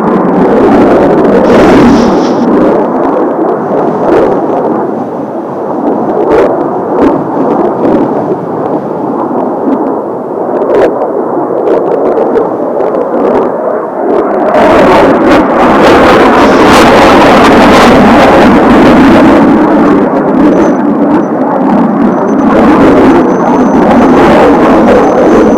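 Jet roar of Blue Impulse Kawasaki T-4 jets flying the display, mixed with gusts of strong wind buffeting the microphone. The roar swells louder and brighter about halfway through and stays loud.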